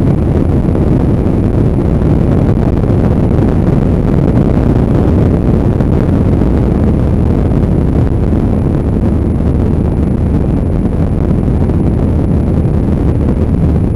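Steady, loud wind rumble on the microphone of a motorbike moving at speed, mixed with the bike's running and road noise.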